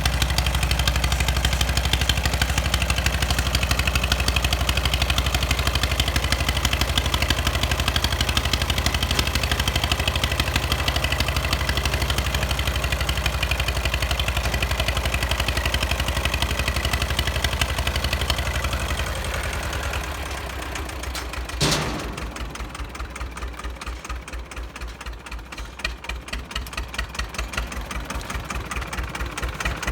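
Two-cylinder JT engine of a 1980s Jiangxi 18 hp tractor running steadily at higher revs, then throttled back at about 19 seconds to a chugging idle with distinct, evenly spaced firing beats. A single sharp click about 22 seconds in.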